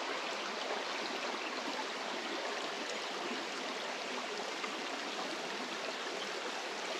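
A rocky mountain creek running over stones and small cascades: a steady rush of water.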